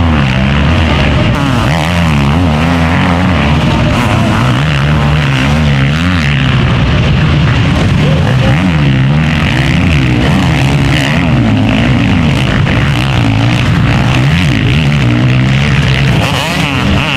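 Several motocross bikes racing, their engines revving up and down over and over as the riders shift and throttle through the track. Loud and continuous, with the pitches of different bikes overlapping.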